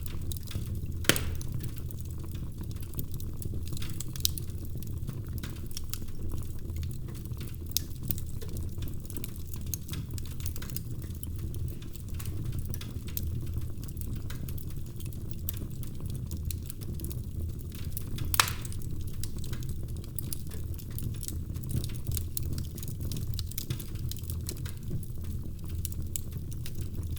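Wood fire crackling in a fireplace: a steady low rumble of flames with scattered sharp snaps and pops, two louder pops about a second in and near the middle.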